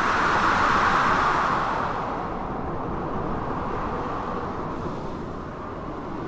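Storm ambience of blizzard wind and crashing waves: a steady rushing noise that swells to a peak about a second in, then slowly eases off.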